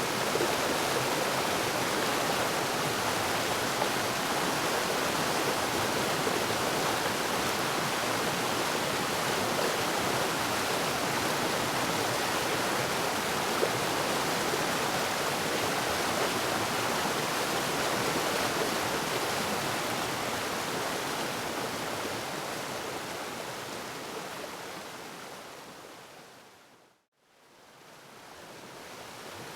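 Waterfall pouring, a steady, even rush of water. Near the end it fades down to a moment of silence and then fades back up.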